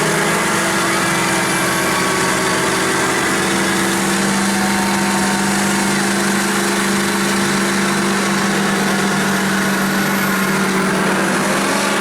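Big truck engines held at high, steady revs under full load, pulling against each other in a tug of war. The pitch stays nearly level throughout.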